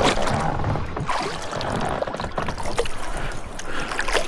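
Water sloshing and splashing around a kayak, with scattered small knocks and clicks.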